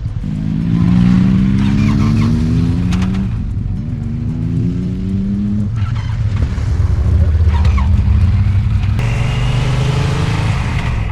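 Motorcycle engine accelerating away through the gears: the pitch climbs, drops at a shift, and climbs again, then settles into a steady low cruising drone.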